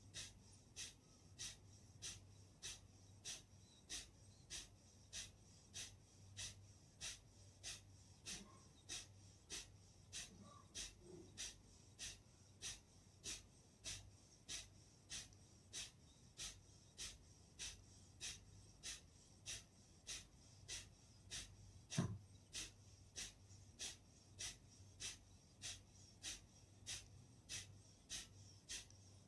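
Kapalbhati breathing: short, forceful exhalations through the nose, evenly spaced at about three every two seconds. There is a single louder knock about 22 seconds in.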